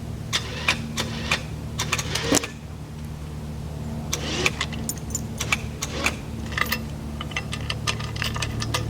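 A vehicle engine running steadily at low revs, with many sharp metallic clinks and rattles over it from the welded steel log arch and its chain and hitch as it is towed.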